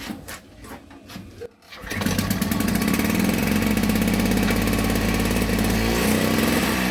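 Victa Tilt-A-Cut S90 power edger's two-stroke engine starting about two seconds in, after a few clicks and knocks, then running steadily with its speed shifting near the end. It starts and runs after a carburettor repair that cured its flooding.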